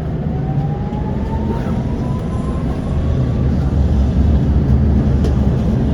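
Inside a moving tram: low rumble of the wheels on the rails, with the electric traction motor's whine rising slowly in pitch over the first few seconds as the tram gathers speed.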